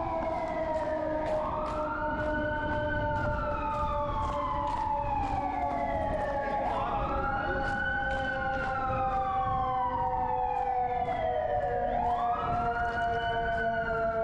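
Emergency vehicle siren wailing in slow cycles, three times: each rises quickly and then falls slowly. A steadier lower tone slides slowly down underneath.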